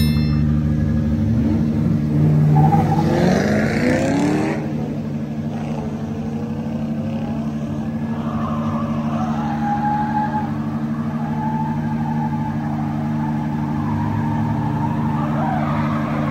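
Turbocharged Nissan Silvia S14 drift car idling with a steady, lumpy engine note. About two to four seconds in, a second engine revs up with a rising pitch.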